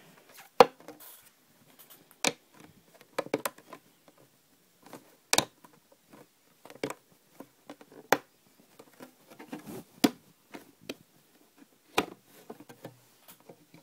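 Scattered clicks and knocks, with faint rustling in between, from a mantis enclosure's lid being worked off by hand.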